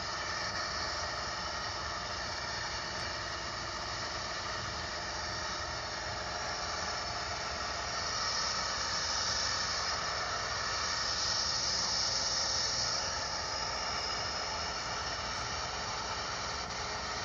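Steady drone of a small plane's engine and rushing air heard inside the cabin, swelling a little about halfway through.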